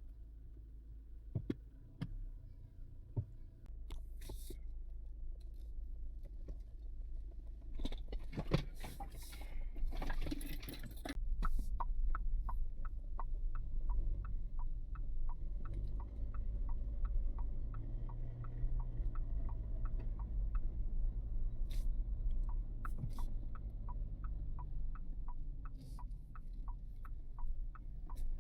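Car running, heard from inside the cabin as a steady low rumble that starts a few seconds in after a few knocks. From about twelve seconds in, an even ticking at roughly two per second runs over it.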